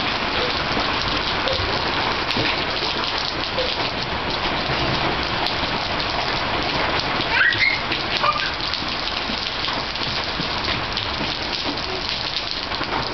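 Steady rain falling on wet brick paving, a dense, even patter.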